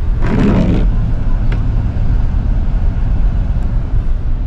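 Steady low rumble of a car's road and engine noise at highway speed, heard from inside the cabin, with a short burst of louder sound about half a second in.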